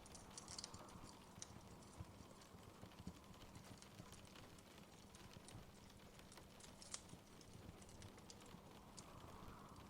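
Faint wood fire crackling in a fireplace: irregular small pops and snaps over a soft low rumble.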